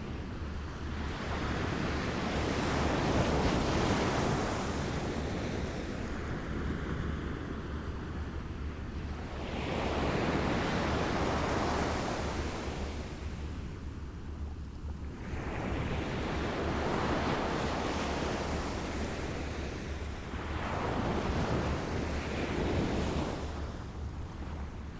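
Small waves lapping at the shore: a wash of water that swells and fades about every five or six seconds, with a steady low rumble of wind underneath.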